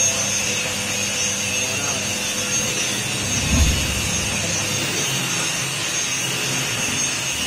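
Electric cassava chip slicing machine running with a steady high whine, and one low thud about three and a half seconds in.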